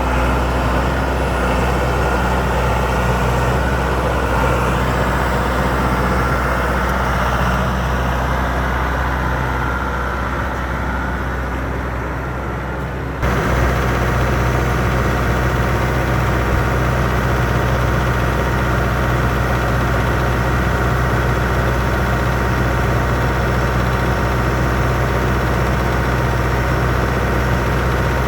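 2007 John Deere 5425 tractor's four-cylinder diesel engine idling steadily, with an abrupt shift in its sound about halfway through.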